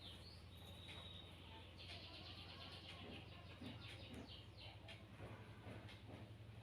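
Faint bird chirping: one high thin note about a second in, then a quick run of rapid chirps. A steady low hum runs underneath.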